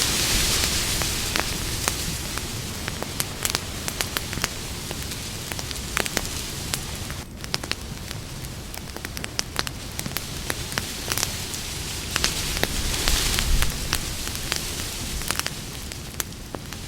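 Campfire crackling: many sharp pops and snaps over the fire's steady hiss, the hiss swelling briefly near the start and again about two-thirds through.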